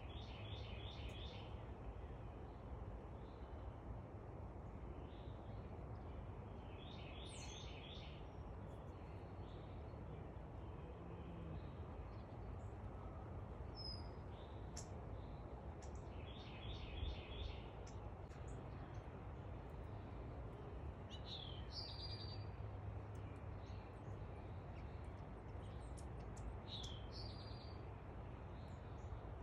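Backyard songbirds singing: a short phrase of quick repeated notes comes three times, several seconds apart, and a few higher, downward-sliding chirps are mixed in. A steady low background rumble runs underneath.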